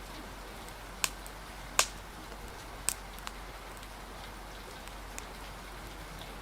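Rain and wind ambience: an even hiss of rain with a few sharp pops in the first half, the loudest about two seconds in.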